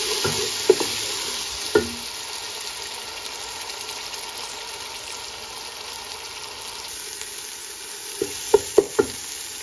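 Ginger-garlic and tomato paste sizzling in hot oil in a non-stick pot while it is stirred with a wooden spoon; the sizzle eases a little after the first couple of seconds. The spoon knocks against the pot a couple of times early on and four times in quick succession near the end.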